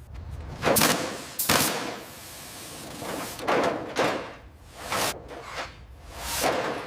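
A series of sudden knocks and swishing sounds, several in a few seconds, with quieter gaps between them.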